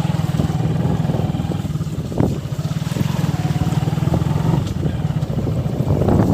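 Motorcycle engine running steadily at low speed, its pitch rising and falling a little, with a couple of sharp knocks.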